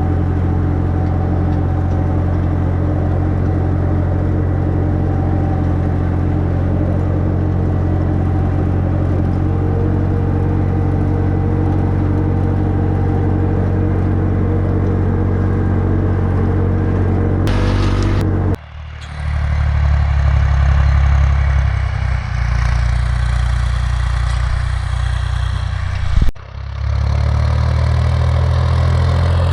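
Ursus C-360 3P tractor's four-cylinder diesel engine running steadily under load while pulling tillage equipment across a field. The sound cuts off abruptly twice, once a little past halfway and once near the end, and each time the engine note comes back with a changed, deeper tone.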